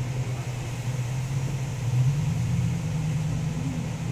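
Heavy rain pouring down, an even hiss, with a steady low hum running underneath.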